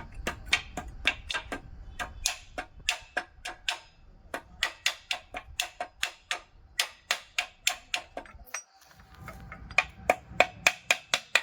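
Repeated sharp metal taps, about three to four a second, with a short pause near the end, from hand tools at work on an engine being reassembled.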